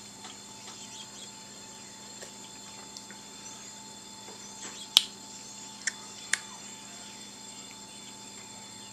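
Steady faint hum and high whine of a quiet room. About five seconds in there is one sharp click, followed by two fainter clicks about a second later.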